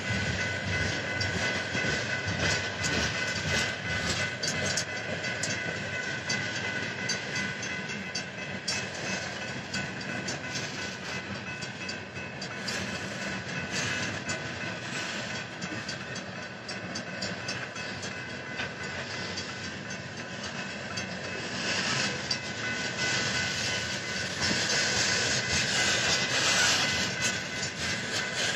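A freight train of tank cars rolls through a railroad grade crossing, its wheels clicking over the rail joints, while the crossing bells ring steadily. The passing cars grow louder over the last few seconds.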